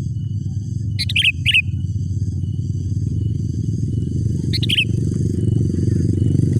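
Sooty-headed bulbul giving short, falling chirped calls: two in quick succession about a second in, and one more near the middle. A steady low rumble runs underneath, louder than the calls.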